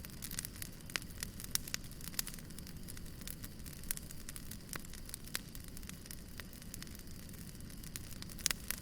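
Wood fire burning with a steady low rumble and frequent irregular crackles and pops, a few sharper pops near the end.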